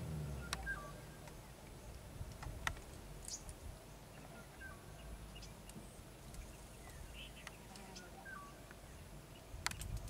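Faint short bird chirps every few seconds over a low steady rumble, with a few sharp clicks, two of them louder near the end.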